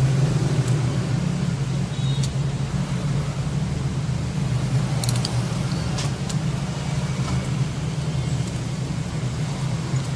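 A steady low hum with background noise, broken by a few small clicks or taps, the clearest about five and six seconds in.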